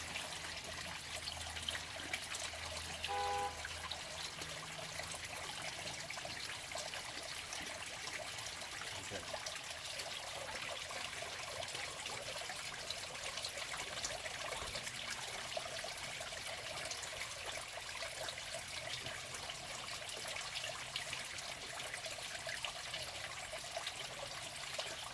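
Steady trickle of running water, like a small stream, with a short pitched sound about three seconds in.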